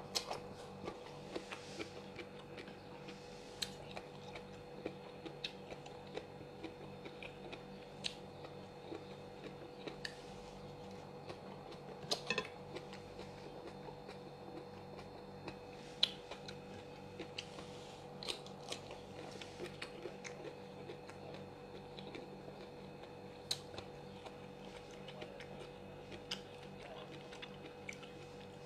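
A person eating, chewing and crunching food, with scattered sharp clicks about once or twice a second, over a steady low hum.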